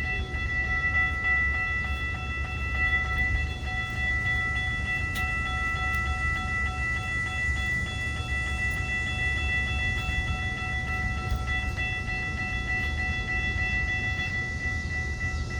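A Metra commuter train led by an MP36PH diesel locomotive rumbles at the station while the grade-crossing bells ring steadily at a high pitch. Some of the bell tones drop out near the end.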